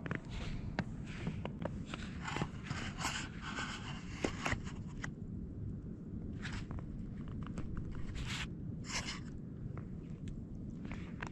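Crunching and scraping in snow: a dense run of short strokes through the first half, then a few separate ones. Underneath is a steady low rumble of wind on the microphone.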